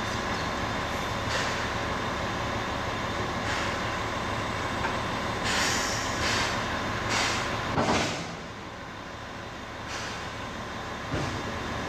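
C11 steam locomotive standing at the station, a steady mechanical background broken by several short hissing bursts about halfway through, after which it goes quieter.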